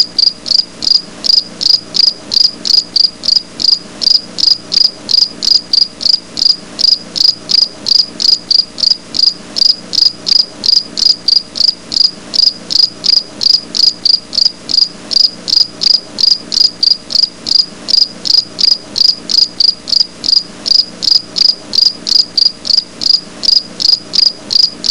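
A single singing insect calling close by: loud, high-pitched chirps repeated in a steady, even rhythm of about three a second.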